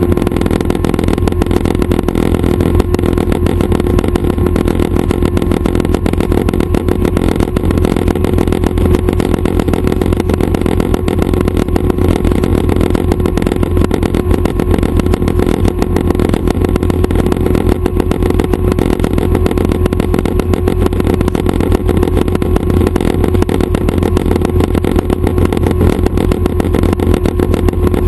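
Schweizer 269 light helicopter's piston engine and rotors running steadily and loud, with an even pitch and a fast, fine flutter throughout.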